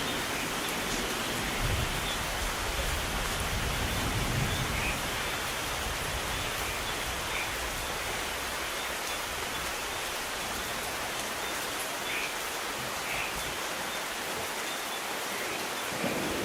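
Steady rain falling, an even hiss. A low, soft rumble of distant thunder comes a couple of seconds in, and another thunder roll begins to build right at the end.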